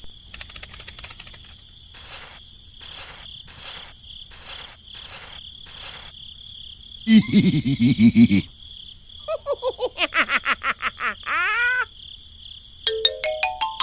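Crickets chirring steadily, overlaid with a string of short sounds: about six brief hissing bursts half a second apart, a rattling low buzz, a run of falling pitched glides, and near the end a quick rising run of notes.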